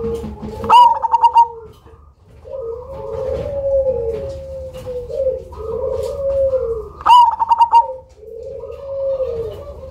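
Zebra dove (perkutut, black cemani variety) singing: repeated rolling, gliding coos, with a loud, quick run of higher notes twice, about a second in and about seven seconds in.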